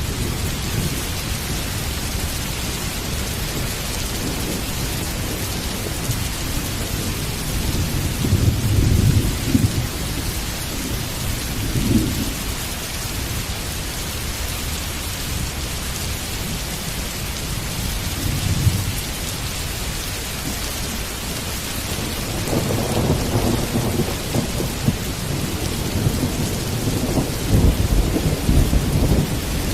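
Heavy rain falling steadily, with rolling thunder rumbling in low swells several times and building to a long, louder rumble in the last third.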